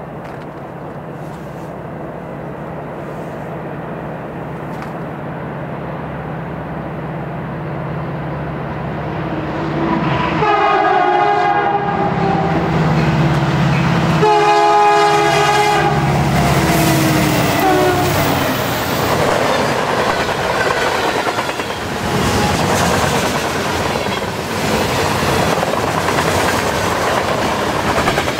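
Freight train approaching at speed behind two CN diesel locomotives, their engines growing louder for about ten seconds. The locomotive horn sounds two long blasts, about ten and fourteen seconds in. The locomotives then go past and the freight cars rush by, wheels clacking over the rail joints.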